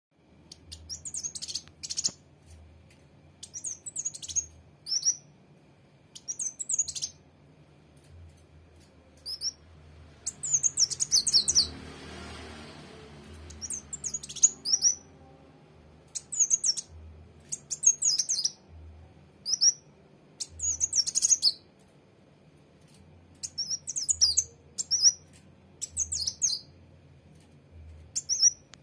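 A sunbird singing: short, high, quick chirping phrases repeated every second or two. The phrases come thickest about ten to twelve seconds in, where a brief hiss of noise also rises under them.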